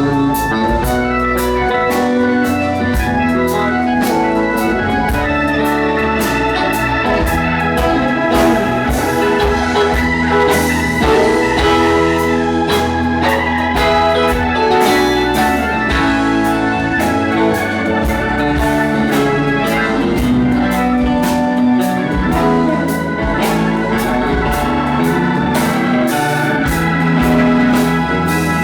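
Live rock band playing an instrumental passage, with an organ sustaining chords to the fore over bass and a steady drum beat.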